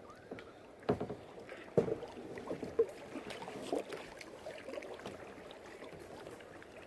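Kayak paddling: the paddle dipping and splashing in the water, with a few sharp knocks in the first three seconds.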